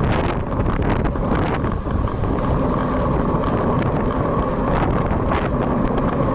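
Wind buffeting the built-in microphone of a bicycle-mounted action camera, a steady rumbling noise while riding in typhoon wind and rain.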